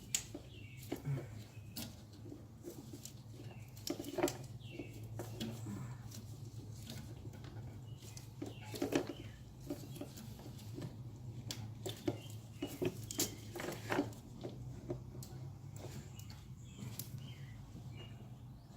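Irregular clicks, taps and light knocks of small parts being handled and worked loose by hand, over a steady low hum.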